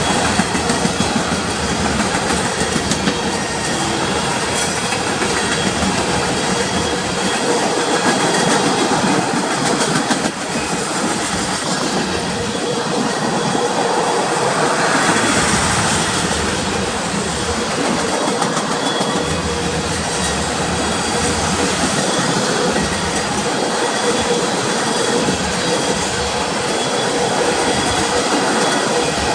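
Freight cars of a long unit train rolling past: a steady rumble and rattle of steel wheels on rail, with faint thin squealing tones running through it.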